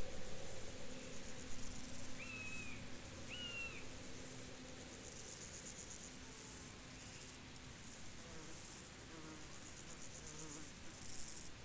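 Field insects, crickets among them, trilling in pulsed high-pitched bursts that come and go. Two short higher calls sound a couple of seconds in.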